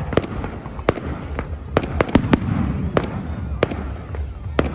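Fireworks going off: a quick, irregular run of sharp bangs and cracks, about a dozen in under five seconds.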